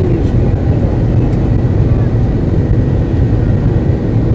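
Airliner engines running with a steady low rumble, heard from inside the passenger cabin, with a faint steady high whine over it.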